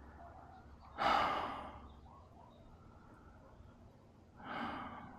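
A man sighing heavily twice, long unvoiced exhales, the first loud about a second in and fading slowly, the second softer near the end, in frustration.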